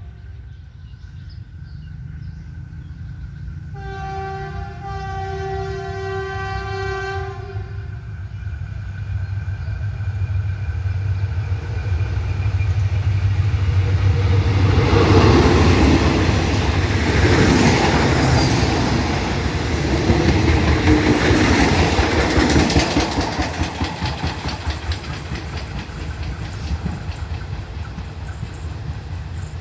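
Diesel-electric locomotive GEK 4018 sounds one long horn blast about four seconds in, then passes with its passenger train, engine running and wheels clattering over the rail joints, loudest near the middle and fading toward the end. The passing cars include one whose wheel has a flat spot, which knocks as it rolls.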